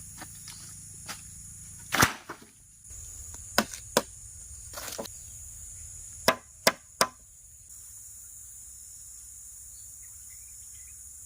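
Wood being chopped: about eight sharp, irregularly spaced blows, the loudest about two seconds in and again about six seconds in. Under them runs a steady high-pitched insect drone that drops away about two-thirds of the way through.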